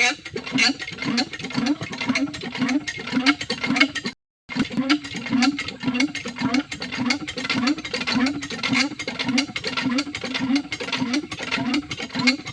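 Water-pump engine running with an even chugging beat, about two and a half beats a second, with clattering clicks over it. The sound cuts out completely for a moment a little after four seconds in, then resumes.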